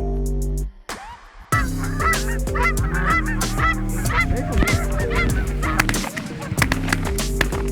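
A flock of geese honking, many short calls overlapping, over background music. The music drops out briefly about a second in, and the honking starts just after.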